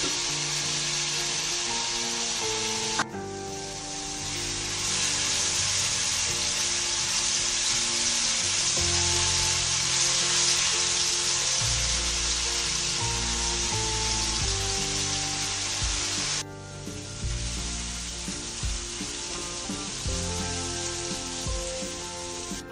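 Chilli sambal of chopped chillies, shallots and garlic sizzling in hot oil in a wok, stirred with a silicone spatula, over soft background music. The sizzle drops off abruptly about three seconds in and again about sixteen seconds in, then builds back up.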